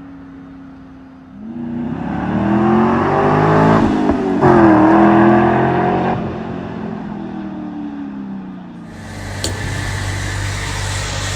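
The 2004 Cadillac CTS-V's V8 with its muffler deleted accelerates hard, with loud, rising revs. About four seconds in, the engine note breaks briefly at a gear change, then rises again and falls away as the throttle is lifted. Near the end the sound switches abruptly to a steadier low engine hum with a single click.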